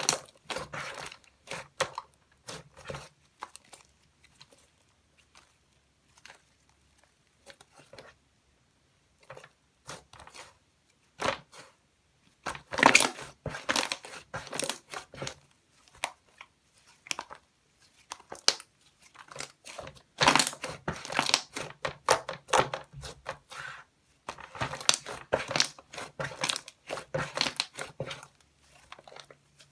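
Slime being handled by hand: clusters of crinkly, crackling pops and tearing sounds as it is pressed and pulled apart, with a quiet pause early on and busier handling in the second half.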